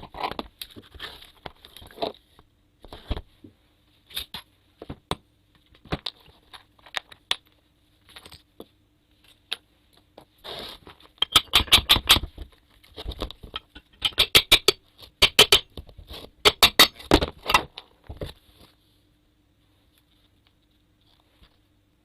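Hand work on a small water circulation pump motor being taken apart: scattered taps and clicks of tools and small parts, then three bursts of rapid clicking about halfway through, before the handling stops near the end.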